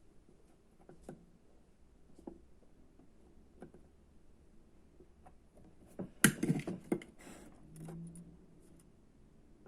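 Small hard objects being handled: a few light clicks and taps, then a brief burst of clinking and rattling about six seconds in, like tools or kit parts put down and moved about.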